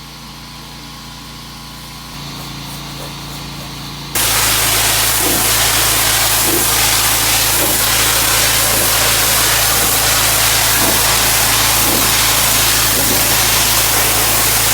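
Pressure washer spraying: a loud, steady hiss of the high-pressure water jet starts abruptly about four seconds in, over the steady hum of its engine-driven pump. Before that only the quieter hum of the running machine is heard.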